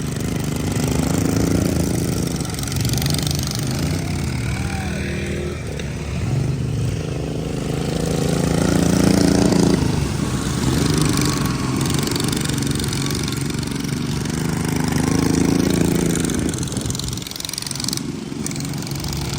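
Racing lawn mower engines running hard. Their pitch rises and falls, and the sound swells as they pass, loudest about halfway through and again later on.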